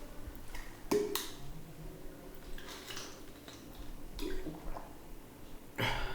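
A person drinking water: a few separate gulps and small clicks spread across a fairly quiet stretch.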